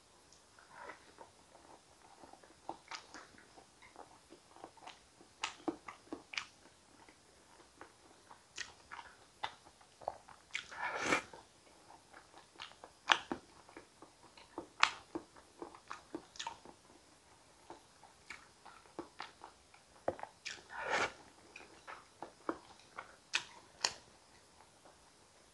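Close-miked eating sounds of soft food, sweet potato and thick soup: wet chewing with many sharp mouth clicks and lip smacks, and two longer, louder wet sounds about eleven and twenty-one seconds in.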